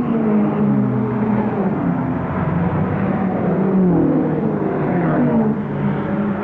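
A Lotus sports car's engine running hard, its pitch sliding down, climbing again and then dropping about two thirds of the way through.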